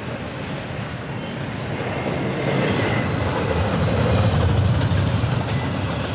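Double-stack intermodal freight cars rolling past: a steady rumble of steel wheels on rail, growing louder about halfway through.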